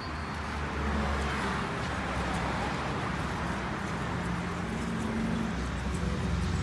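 Steady road-vehicle noise: a continuous low engine hum under a noisy traffic haze.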